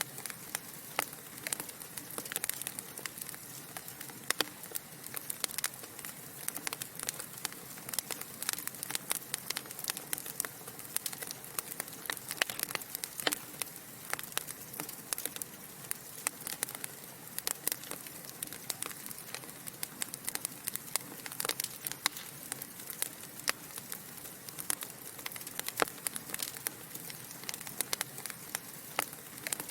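Burning logs crackling in a fireplace: a dense run of irregular snaps and pops over a soft steady hiss.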